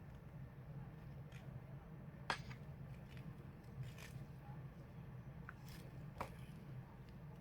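Faint scattered clicks and ticks of hands working a crochet hook through yarn, with two sharper clicks about two seconds in and near six seconds, over a steady low hum.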